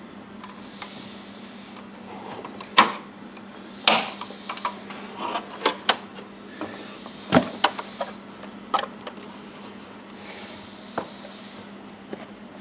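Irregular clicks and knocks of car interior parts and plastic trim being handled and fitted by hand, about ten sharp knocks spread unevenly, over a faint steady hum.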